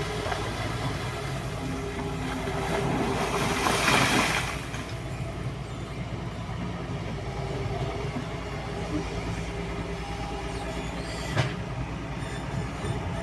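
Excavator working with its diesel engine running steadily, a louder rush of noise about three to four and a half seconds in, and one sharp clank near the end.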